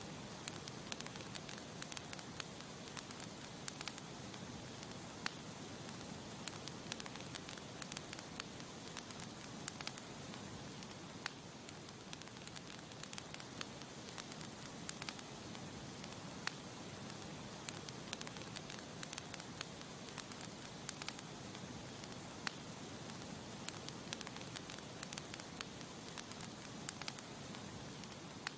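Campfire burning with a steady hiss and frequent sharp crackles and pops of burning wood.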